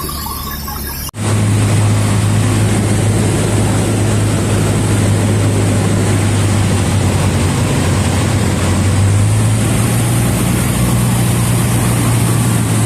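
Cessna 152's four-cylinder Lycoming engine and propeller running steadily, starting abruptly about a second in. The pitch rises slightly near the end.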